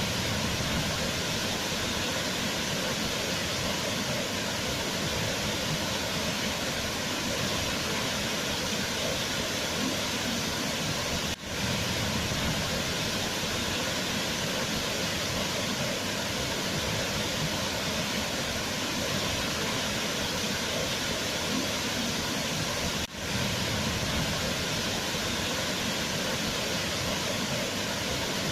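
Waterfall, a steady, even rush of falling water, with a brief dip in level twice, about 11 and 23 seconds in.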